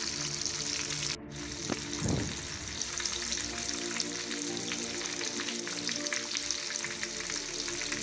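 Eggplant, tomato, petai, shallots and garlic deep-frying in oil in a wok: a steady sizzle with small pops, broken briefly about a second in.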